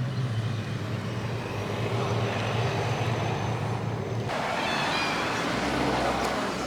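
Car engines running as vehicles roll past: a steady low engine drone that breaks off abruptly about four seconds in, giving way to a rougher, noisier mix of engine and road sound.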